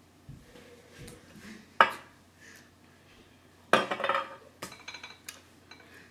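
Dishes and cutlery clattering: a single sharp clank a little under two seconds in, then a longer rattling clatter about two seconds later, followed by a few light clicks.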